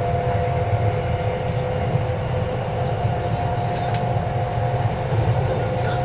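JR East 253-series electric train heard from inside the passenger car while running at steady speed: a steady low rumble of wheels on track with two steady humming tones, and a faint click about four seconds in.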